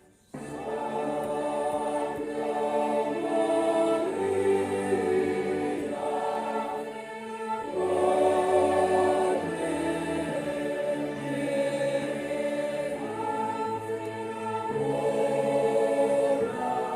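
Church choir singing a hymn in several parts, in sustained phrases with a short break between them.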